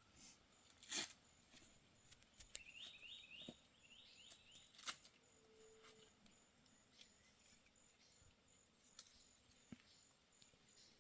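Faint outdoor quiet with a bird calling two quick runs of short, rising high notes, and a few scattered clicks and knocks, the loudest about a second in.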